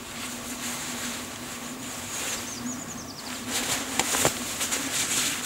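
Quiet outdoor ambience: a steady low hum under a faint hiss, with a short run of quick, high descending chirps from a small bird about halfway through. A few sharp clicks near the end are the loudest sounds.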